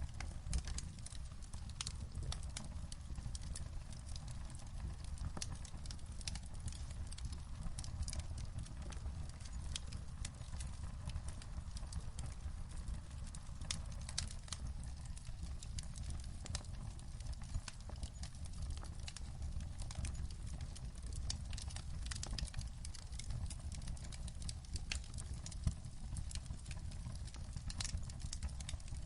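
Wood fire crackling in a fireplace: irregular sharp pops and snaps over a steady low rumble, with a louder pop about half a second in and another near the end.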